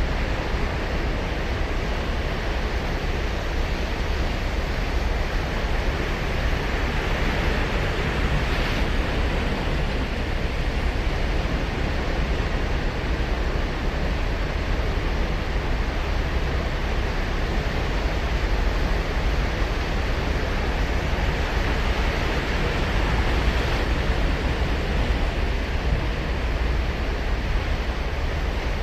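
Ocean surf washing onto a sandy beach, a steady wash of noise that swells gently twice as waves break, with a low rumble that suggests wind on the microphone.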